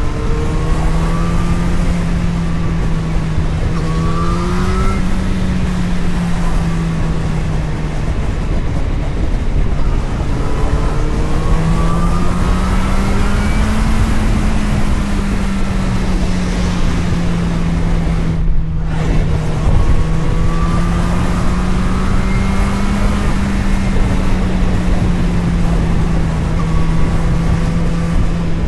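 Vehicle engine running under way, heard on board over heavy wind and road rumble. Its note climbs and settles back a few times as the vehicle speeds up and eases off, about 4 to 5 seconds in, again around 12 to 14 seconds, and near 23 seconds.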